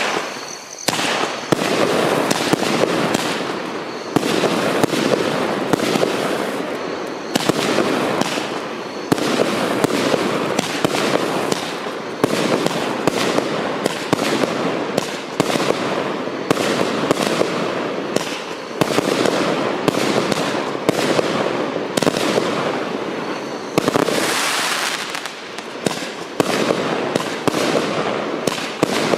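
Compound consumer firework cake firing: a rapid, continuous barrage of launches and bursts, with sharp reports coming several times a second, beginning about a second in.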